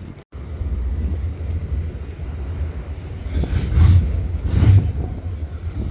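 A car engine's low, steady rumble, with two short, louder surges about four and four-and-a-half seconds in. Just before the rumble starts, the sound cuts out for a moment.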